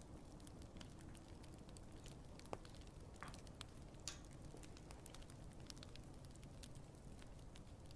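Wood fire crackling softly, a steady hiss of burning with many small irregular clicks and pops, and two sharper pops about two and a half and four seconds in.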